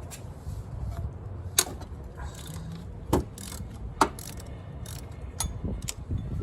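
Ratchet and socket working a bolt on a car's alternator mount, with a handful of sharp metal clicks and clinks spread across a few seconds.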